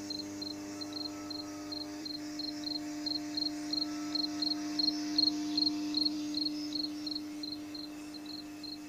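A cricket chirping steadily, about three short high chirps a second. Underneath runs a steady low electrical hum.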